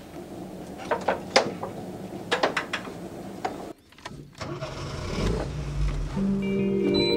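Sharp metallic clicks and taps of hand work on a motorcycle, then, after a sudden cut, a car engine heard from inside the cabin, rising in level. Music with sustained bell-like tones comes in near the end.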